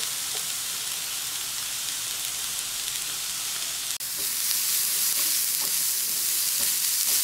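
Diced carrot with onion, garlic and curry leaves sizzling in hot oil in a nonstick frying pan, stirred with a spatula. The sizzle is a steady hiss that cuts out for an instant about four seconds in, then comes back a little louder.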